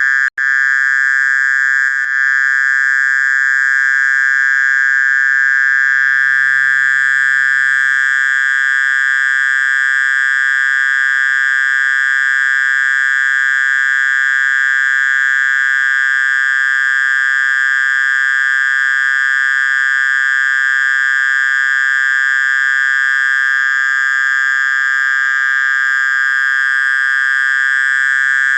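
Mole cricket (orong-orong) calling: one continuous, steady high-pitched buzzing trill without a break. Villagers take this call as the sign that it is still dusk.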